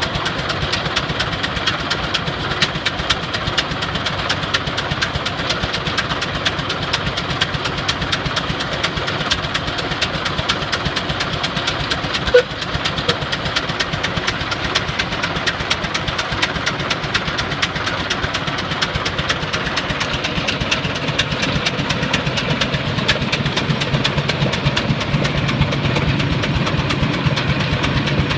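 Case 20-40 tractor engine running steadily, with a rapid, even beat of firing strokes. A single short, sharp click about halfway through; the low hum of the engine grows stronger near the end.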